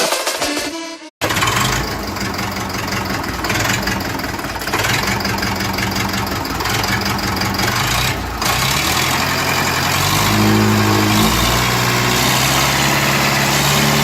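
The U650 M tractor's four-cylinder diesel engine running steadily after its restoration, its note shifting and strengthening about ten seconds in.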